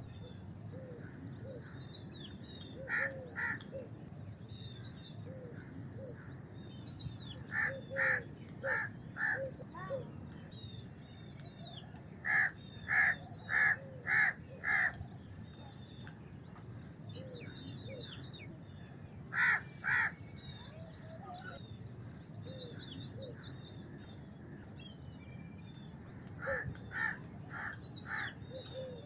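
House crows cawing in groups of two to five caws, with pauses of a few seconds between groups, while smaller birds chirp rapidly and high throughout.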